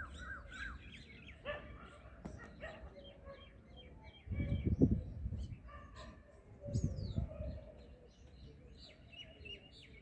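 Small birds chirping repeatedly, with two brief low rumbles around the middle, the first the loudest.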